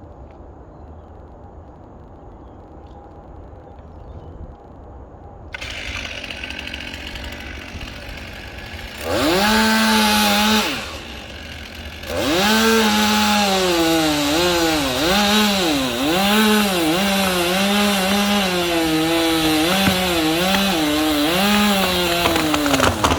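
Gas chainsaw cutting a tree. After a quiet start the sound rises about five seconds in; the saw is throttled up briefly near nine seconds, eases off, then from about twelve seconds runs at full revs while its pitch repeatedly dips and recovers as the chain bites into the wood under load.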